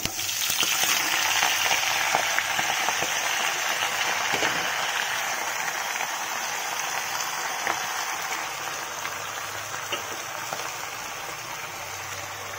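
Hot mustard oil sizzling as freshly washed Malabar spinach, potato and brinjal go into the pan; the sizzle is strongest at first and slowly eases.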